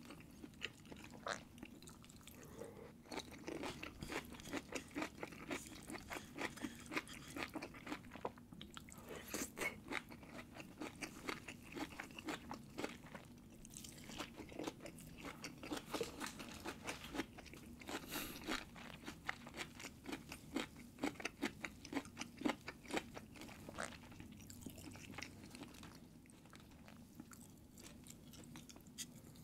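Close-miked chewing of steamed sea bass: a steady run of small wet clicks and smacks from the mouth.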